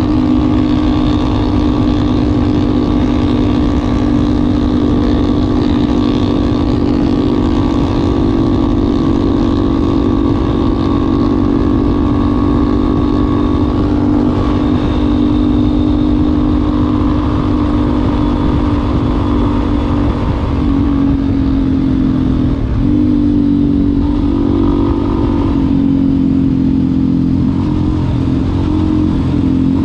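Yamaha Ténéré 250's single-cylinder engine running through an aftermarket Wacs exhaust muffler, holding steady revs, then the engine note briefly drops and rises a few times about two-thirds of the way through.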